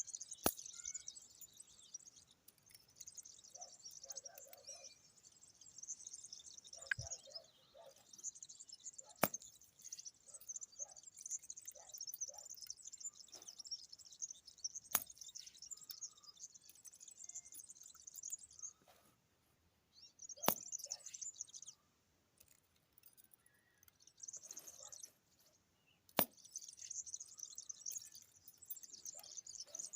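Shrill, high-pitched chirping that goes on in long stretches with brief gaps, with a sharp click every five or six seconds.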